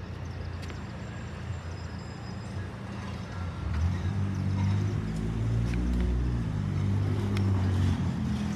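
A vehicle engine runs close by, its low rumble growing louder about four seconds in.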